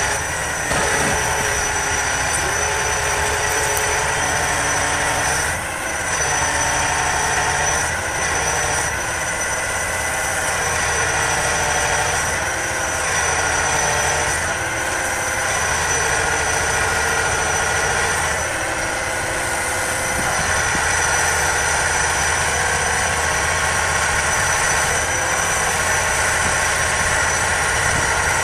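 Heavy engine running steadily, with a steady high whine over it.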